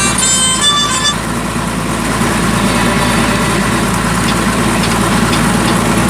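Bedford truck engine running steadily under way, a loud low rumble. In the first second a brief cluster of high, reedy tones sounds over it.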